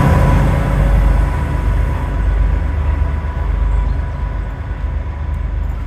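Historic train pulling away, its trailing FS D.445 diesel locomotive rolling past: a heavy low rumble of wheels and engine, with a steady high whine, that slowly fades as the train moves off, the hiss of rail noise dropping away about two seconds in.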